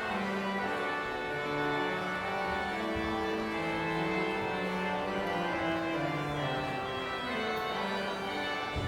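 Church organ playing the postlude: sustained chords in several voices, moving to a new chord every second or two.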